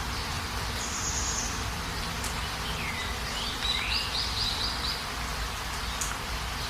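Small birds chirping over a steady hiss of rain: a high note about a second in, a sliding call a little before the middle, then a quick run of about five chirps.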